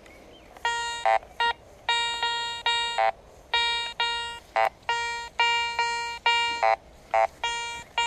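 Garrett Ace 200i metal detector beeping over a buried target as the coil sweeps back and forth: repeated fading tones with shorter, higher blips mixed in. The detectorist judges this signal a bit suspect.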